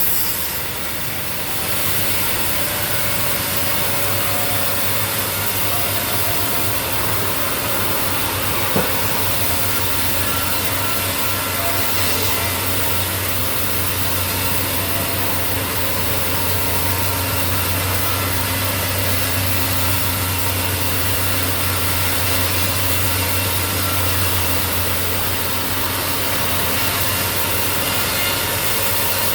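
Sawmill machinery running steadily, its engine-driven saw cutting through wood. There is one sharp click about nine seconds in.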